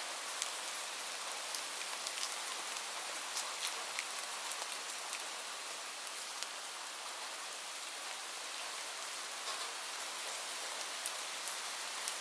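Steady rain falling, a constant hiss with scattered sharper drop ticks landing on a surface.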